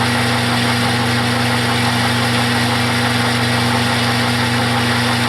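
Metal lathe running steadily on power cross feed during a facing cut: a constant hum with an even rushing noise over it.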